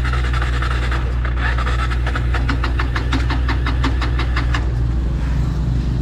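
Small motorbike engine running steadily, restarted now that its fuel valve is open. In the middle, for about two and a half seconds, a fast even run of short ticks, about six a second, sits over the engine.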